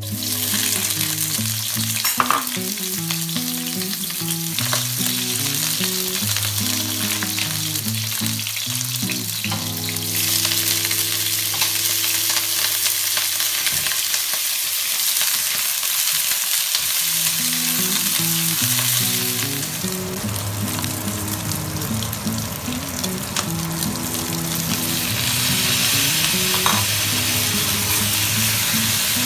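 Hot oil sizzling in a wok as sliced ginger and scallion, then chunks of beef, then tomato pieces are tipped in and stirred with a spatula. The sizzle grows louder about ten seconds in and again near the end.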